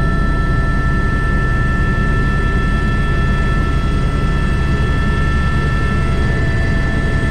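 Airbus H125 single-turbine helicopter in flight, heard from the cockpit: a steady drone of the main rotor and turboshaft engine, with several constant high whining tones over it.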